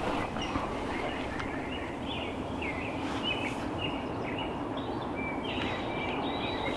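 Small songbirds chirping in short, repeated notes over a steady outdoor background hiss.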